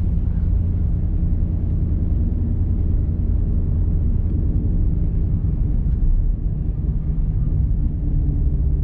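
Ford Mustang GT's 5.0-litre V8 with a full aftermarket exhaust, running steadily with an even low rumble.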